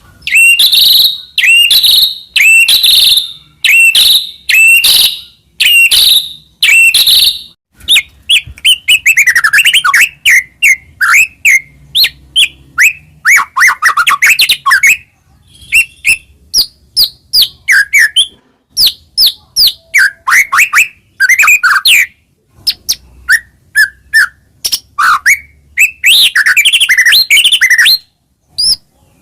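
White-rumped shama (murai batu) in full, loud song. It opens with a run of repeated upswept whistled notes about two a second, then breaks into fast, varied phrases of whistles, sweeps, trills and chips, densest near the end.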